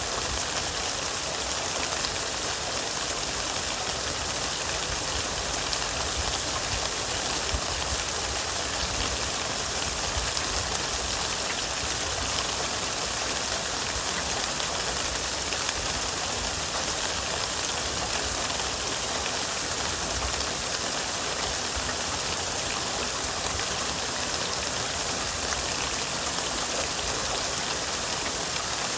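Steady rain, with a dense, even hiss of falling drops that holds level throughout.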